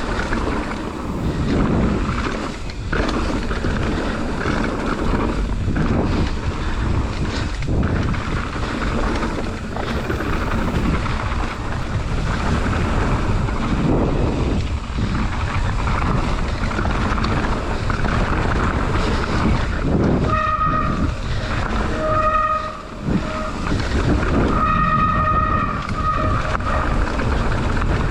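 Mountain bike descending a trail, heard from the bike or rider: steady wind rush on the microphone with tyres rolling and rattling over the ground. Between about 20 and 26 seconds in, short high-pitched whines come and go three times.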